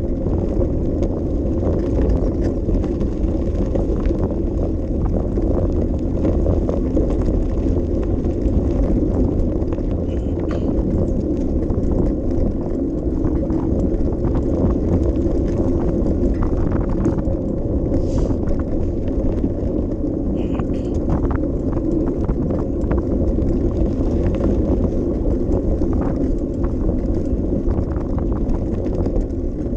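Bicycle riding with a GoPro Session: a steady low rumble of wind on the camera's microphone and tyres rolling along a path, with scattered small clicks and rattles from the bike.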